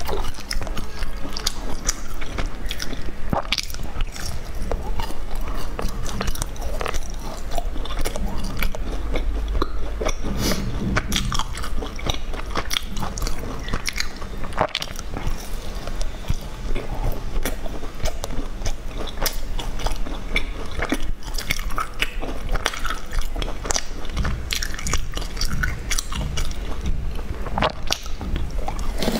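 Close-miked biting and chewing of a sesame-coated brown cake, a steady run of small irregular crackles and clicks.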